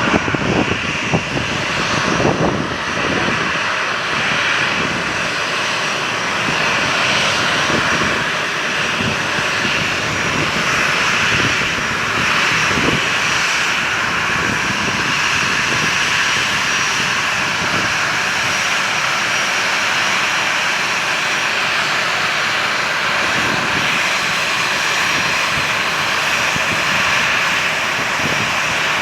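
Aircraft engines running with a steady, loud hiss that neither rises nor falls much; gusts of wind buffet the microphone in the first few seconds.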